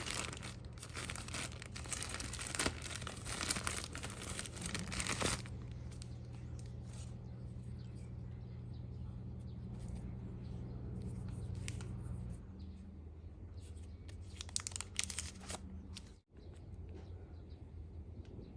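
Crinkling and tearing of packaging for about five seconds, then quieter handling over a steady low hum.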